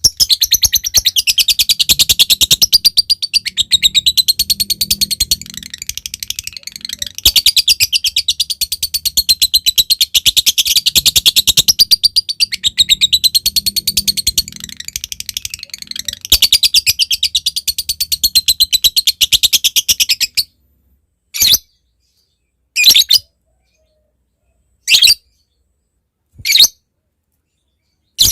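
Lovebird giving a long, very rapid high-pitched chattering trill (the 'ngekek') that runs about twenty seconds, then breaking off into single short calls about every second and a half.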